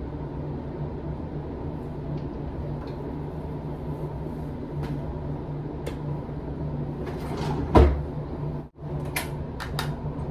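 A steady low hum with scattered clicks and knocks of things being handled, and one loud thump of a door shutting about eight seconds in.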